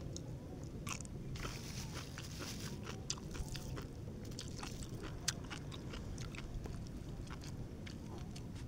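A person chewing and biting food close to the microphone, with many small, sharp wet crunches and clicks scattered through the chewing.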